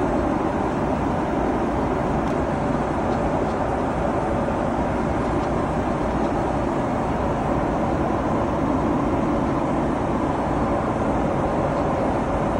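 Steady airliner cabin noise in flight aboard a Boeing 777-300ER: an even, unbroken rush of airflow and engine noise, heaviest in the low and middle range.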